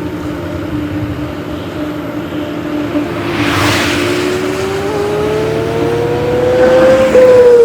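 A heavy vehicle's engine running, then revving up with its pitch climbing steadily over several seconds and peaking near the end, with a brief rushing noise about three and a half seconds in and another near the peak.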